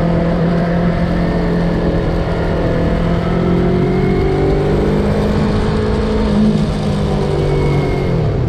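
Yamaha MT-03 motorcycle engine running on the move, a steady note over a constant rush of noise. The pitch rises a little midway through and drops near the end as the bike slows or shifts.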